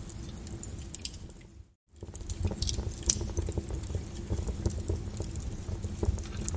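Wood fire crackling in a fireplace, with a low rumble under scattered sharp pops and snaps. The sound fades out almost to nothing just under two seconds in and comes straight back.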